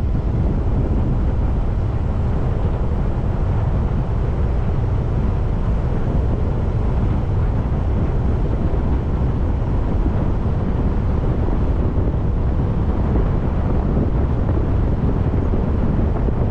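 Steady low rumble of a car being driven, engine and tyre noise without a break.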